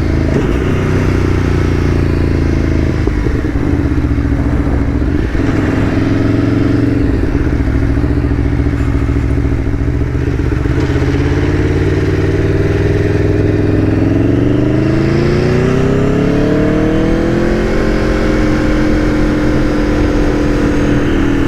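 Aprilia Tuono V4 1100 Factory's V4 engine, with what is believed to be a full exhaust, pulling the bike along at a steady note. About two-thirds of the way through, the engine note climbs smoothly as the bike accelerates, then holds at the higher pitch.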